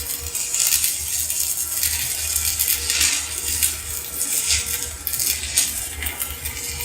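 Electric arc welding with a stick electrode: the arc crackles and sputters steadily and unevenly, over a low hum.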